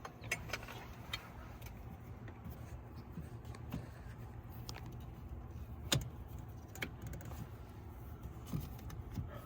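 Scattered light metallic clicks and clinks of parts and hand tools being handled, the sharpest about six seconds in, over a low steady hum.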